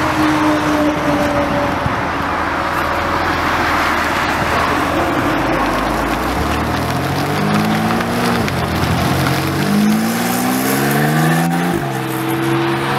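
Porsche 911 Turbo's twin-turbo flat-six pulling away: a low rumble at first, then accelerating hard with the pitch rising, an upshift about eight and a half seconds in, a second climb and another upshift near twelve seconds, then a steadier cruise.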